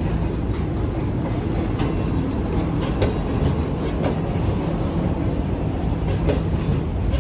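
Passenger coaches rolling slowly past with a continuous rumble, their wheels clicking over rail joints every second or so.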